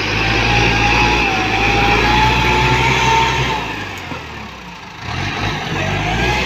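ZT 155 tractor engine running, with a whine above the engine note. About four seconds in it eases off briefly, then picks up again.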